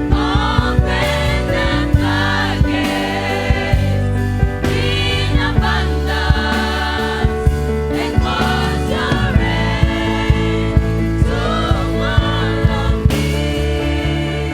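Gospel worship song sung by a group of singers in choir style over a band, with held chords under the voices and a steady drum beat.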